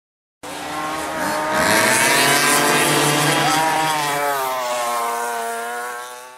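Go-kart engine running, cutting in suddenly about half a second in. Its pitch climbs for a couple of seconds, then slowly falls away, as when the kart accelerates and then backs off or passes by.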